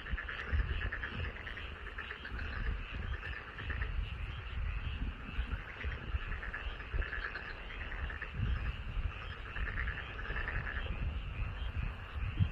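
Chorus of many frogs calling in a rice paddy: dense, rapid pulsed trills that overlap and swell in waves, with a low irregular rumble underneath.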